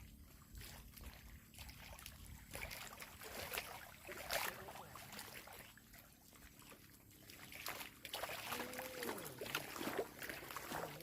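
Faint water sounds: trickling and lapping with scattered irregular drips and patters. A short wavering call comes about eight and a half seconds in.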